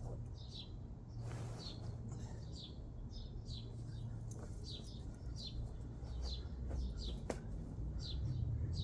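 A bird calling repeatedly in short falling chirps, about one or two a second, over a steady low rumble. There is a single sharp click about seven seconds in.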